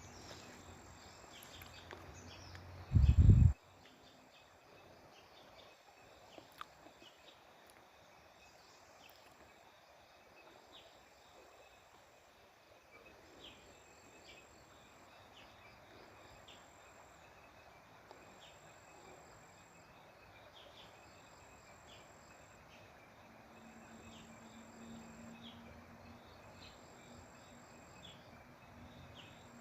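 Faint outdoor ambience with a high chirping that pulses on and off about every two seconds, over small repeated ticks. A brief loud low buffet hits the microphone about three seconds in.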